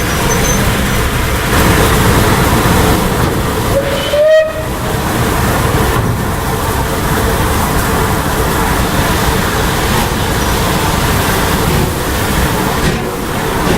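Steam-hauled heritage train running, a loud steady rumble and rattle of the carriages on the track. About four seconds in, a short rising tone is followed by a brief dip.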